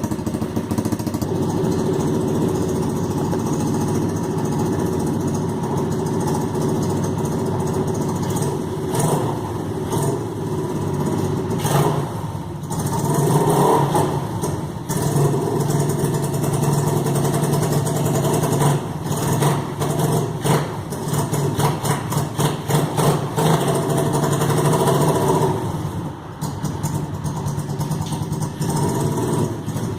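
125 cc pit bike engine running, revved up and down in quick surges through the middle, easing off near the end.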